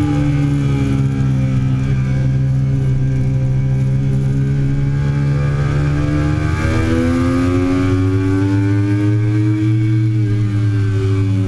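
A 2008 Triumph Daytona 675's three-cylinder engine at speed on a racetrack. The revs fall in the first second or so and then hold, the pitch shifts abruptly a little past halfway, and the revs climb steadily before dropping again near the end.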